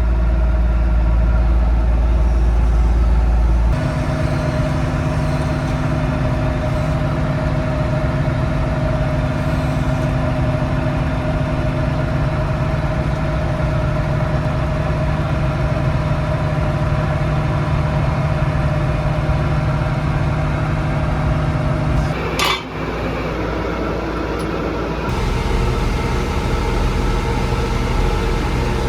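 John Deere 6600 combine's diesel engine running steadily. The sound changes abruptly about four seconds in and again near the end, with one sharp knock just before the last change.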